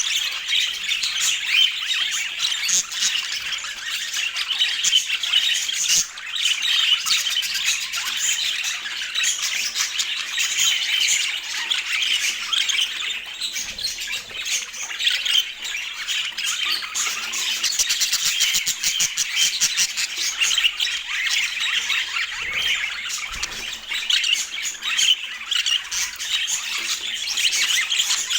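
Budgerigars chattering and squawking: a dense, continuous mix of quick warbles, chirps and sharp calls.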